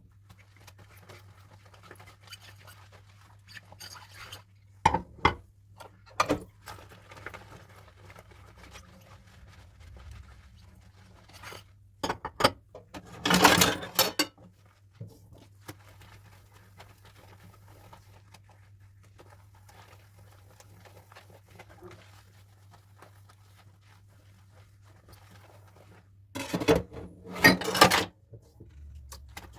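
Dishes and cutlery being handled in hand dishwashing: scattered clinks and knocks, with two louder noisy stretches of a second or two, about halfway through and near the end. A steady low hum runs underneath.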